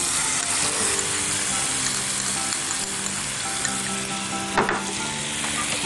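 A wet ground masala paste of onion, tomato, coconut and herbs is dropped into hot tempering oil in a frying pan and sizzles, loudest at first and easing a little.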